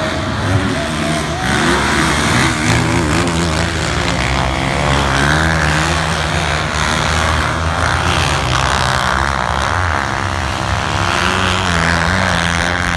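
Two-stroke race snowmobile engines running loud, revving up and down over and over.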